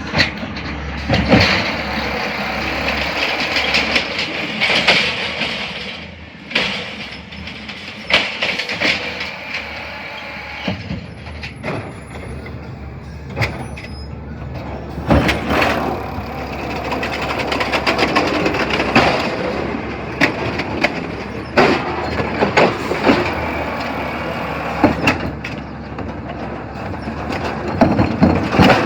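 CNG Peterbilt 320 garbage truck with an Amrep body at work. The engine runs steadily under many sharp metallic clanks and knocks at irregular intervals.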